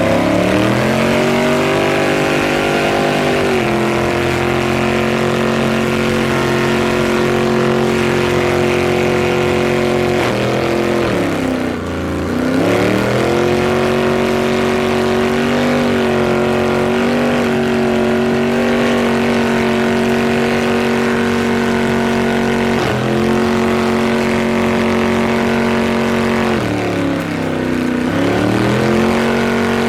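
Car engine held at high revs during a tire-smoking burnout, a steady high note that drops off about eleven seconds in and again near the end, each time climbing straight back up.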